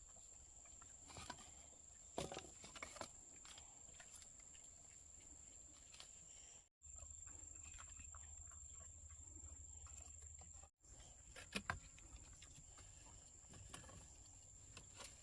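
Near silence: faint scattered rustles and clicks, a few louder ones about two seconds in and again past the middle, over a faint steady high-pitched hum.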